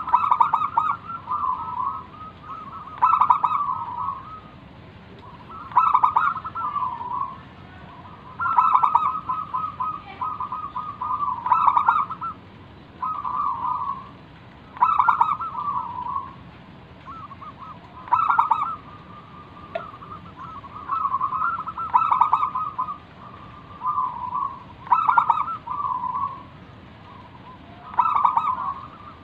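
Zebra dove (perkutut) singing its cooing song: short phrases of quick staccato coo notes, repeated over and over, one every two to three seconds.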